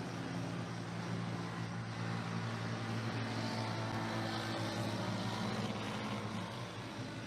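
An engine running steadily, a low hum of a few steady tones that waver slightly in pitch, over a constant hiss.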